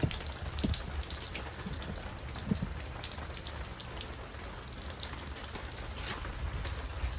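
Water draining from a travel trailer's plumbing drains and pattering in many small drops and splashes onto the ground, with a few soft knocks.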